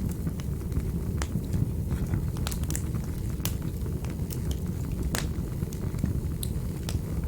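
Wood fire burning in a fireplace: a steady low rumble of flames with irregular sharp crackles and pops, the loudest a little past halfway.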